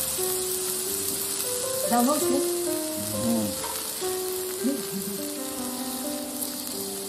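Beef slices, shrimp and mushrooms sizzling as they fry in oil in a shallow pan, with a steady hiss while they are stirred. Background music with held notes plays over it.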